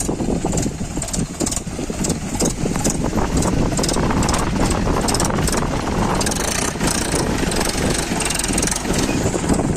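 Mahindra 575 DI tractor's diesel engine running with a dense low rumble, getting somewhat louder over the first few seconds, with a regular high clicking rattle, about two to three a second, over it.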